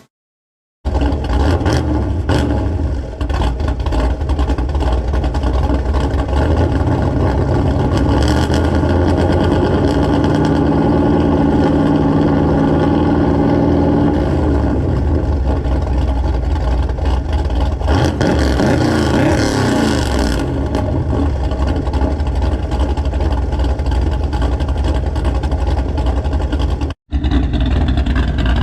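Shelby Dakota pickup's V8 running through aftermarket mufflers: a steady exhaust note, revved up and let back down a couple of times.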